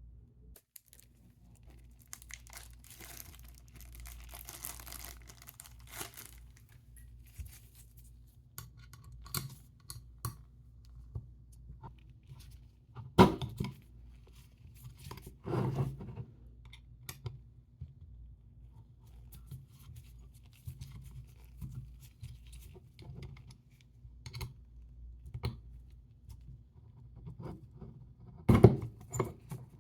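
Handling noise from an OMOTON vertical double laptop stand as its adjustable dock is worked. A rustling, scraping stretch comes a few seconds in, followed by scattered sharp knocks, with the loudest ones about halfway through and near the end.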